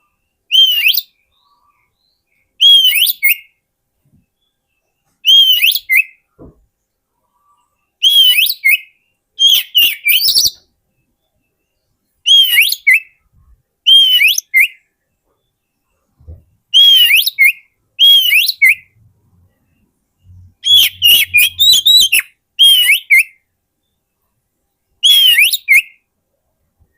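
Oriental magpie-robin (kacer) song: short, loud whistled phrases, each with a rising-and-falling note and sharp high chips, repeated about every two seconds with brief silences between, used as a lure call for wild magpie-robins.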